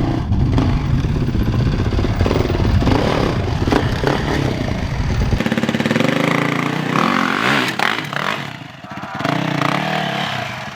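Yamaha YZ450FX 450cc single-cylinder four-stroke dirt bike engine being ridden, its revs rising and falling with the throttle. The deep low rumble drops away about halfway through, and there is a brief lull near the end.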